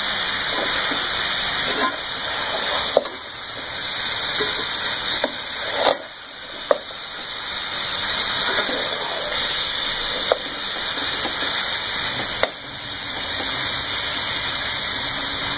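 Beef pieces in ginger-garlic paste sizzling steadily as they fry in a metal pot, stirred with a slotted metal spatula that knocks sharply against the pot a few times.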